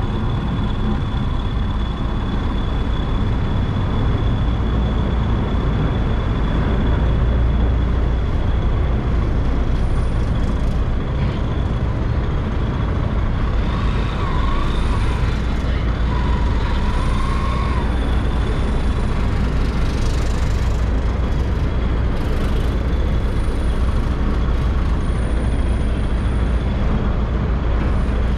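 Yamaha motorcycle engine running at low speed as it rolls across a steel river-ferry deck, under a steady low engine rumble that stays loud and even throughout.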